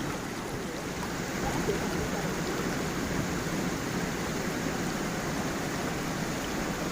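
Gentle stream and small waterfall flowing steadily, an even rushing of water with no breaks.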